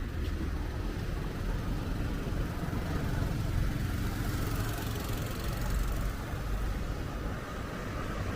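City street traffic: motor vehicles running by, a steady low rumble that swells in the middle as a vehicle passes.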